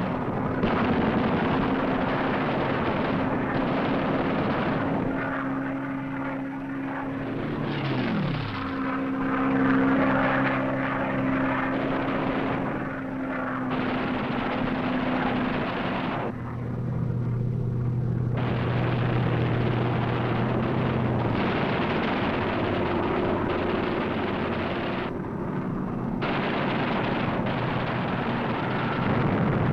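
Propeller aircraft engine drone over a rushing noise, with the pitch sliding down once about eight seconds in and the sound changing abruptly in a couple of places.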